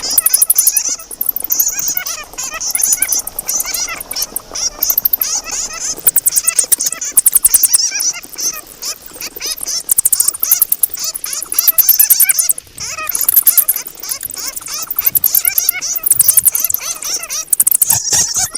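Many bats squeaking and chattering together, a dense stream of shrill squeaks and rapid high clicks that swells and dips every couple of seconds.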